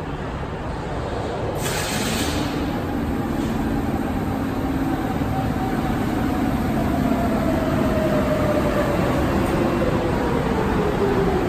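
Subway train running on the rails, growing slowly louder, with a short burst of air hiss about two seconds in. Over the rumble of wheels, a motor whine falls steadily in pitch through the second half.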